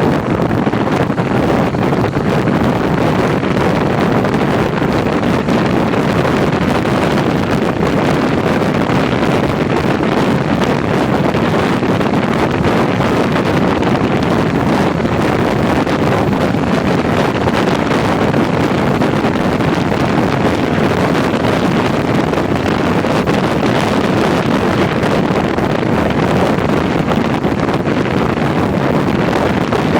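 Steady rush of wind over the microphone of a moving touring motorcycle, blended with its road and engine noise.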